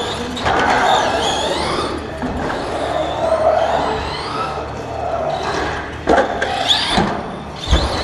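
Radio-controlled racing trucks' motors whining, their pitch rising and falling as the drivers work the throttle through the laps, with a few sharp knocks in the last two seconds.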